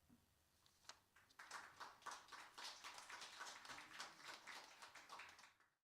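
Faint audience applause, a dense patter of hand claps that starts about a second in and cuts off suddenly near the end.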